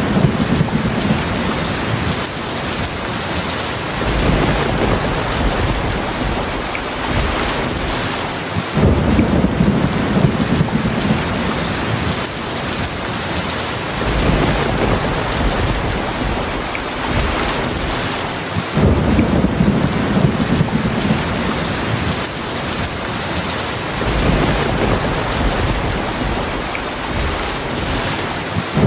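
Heavy, steady rain with low rolling thunder rumbles that swell and fade several times.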